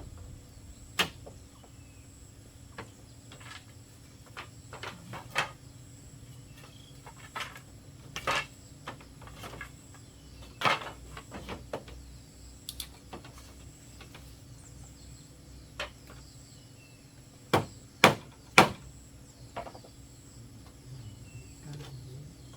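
Irregular knocks and taps from bamboo being worked by hand, spaced unevenly. Near the end come three loud strikes in quick succession.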